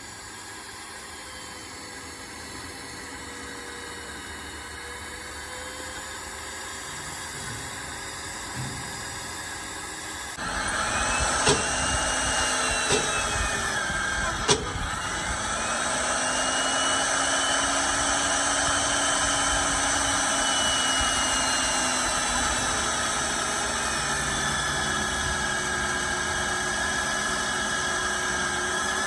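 Motor vehicle engine running, its pitch slowly rising and falling. About ten seconds in it suddenly gets louder, and a few sharp clicks follow.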